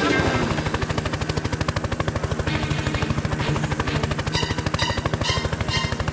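Cartoon sound effect of a toy combat helicopter: a fast, even rattle of short strokes, over background music.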